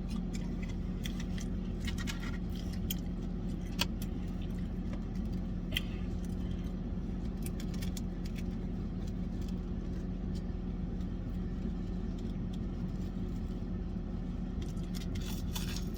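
Steady low motor hum with a constant faint tone, and a few light clicks and taps of food containers being handled.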